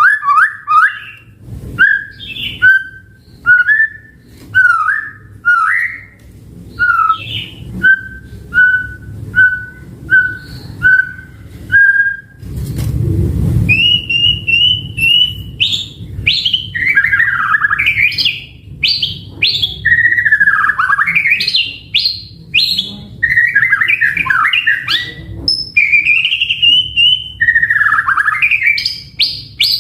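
White-rumped shama (murai batu) singing: first a series of short clear whistled notes at about one a second, then, after a brief low rushing noise just before halfway, a continuous, varied song of rising and falling whistles and warbles.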